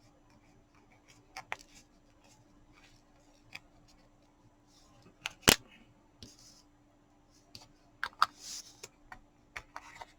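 Scattered small clicks and taps of diamond-painting supplies being handled and put back into their plastic containers, with one sharper click about five and a half seconds in and a quick run of clicks near the end.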